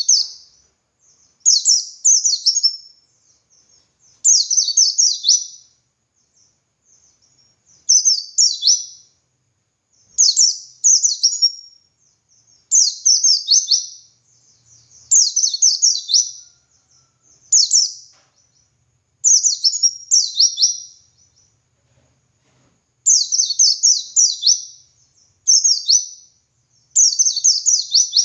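A pleci (white-eye) singing in its full 'ngalas' song: short bursts of rapid, high, falling chirps, each phrase about a second long, repeated every one to two seconds with a brief pause about three-quarters of the way through.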